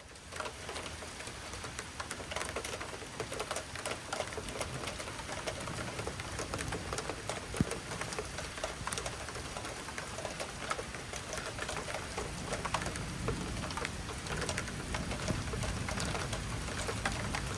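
Rain falling, with a dense, irregular run of individual drops striking close by; it starts abruptly.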